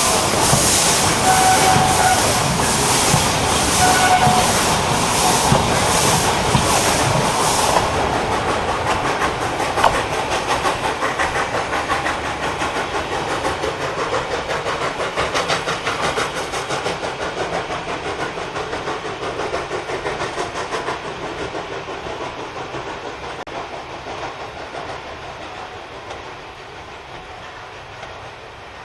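Narrow-gauge steam locomotive chuffing as it pulls away, its exhaust beats at first about two a second, then quickening and running together. It grows steadily fainter as it moves off.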